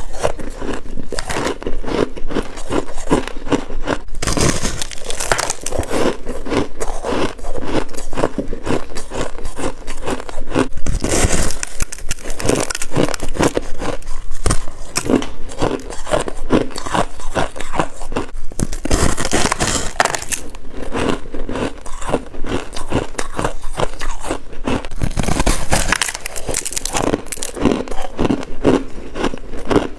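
Close-up crunching of freezer frost being chewed, a dense run of crackling crunches with a few louder scraping stretches where more frost is scraped off or bitten.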